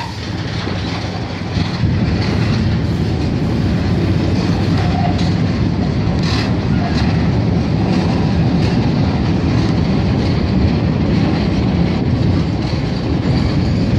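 Freight train of PCA bulk-powder tank wagons rolling past close by: a steady rumble of wagons on the rails, with repeated sharp clacks from the wheels going over the track.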